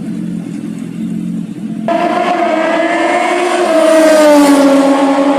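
Motorcycle engines running low and steady, then about two seconds in a superbike engine at high revs cuts in loud and high-pitched, its pitch wavering and dropping a little near the end.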